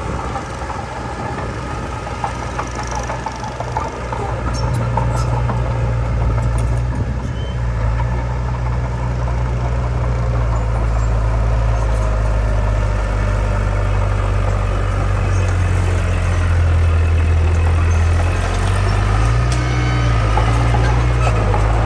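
Heavy diesel engine of earthmoving machinery running steadily with a deep low hum, getting louder about four seconds in, with a brief rise and dip in pitch near the end.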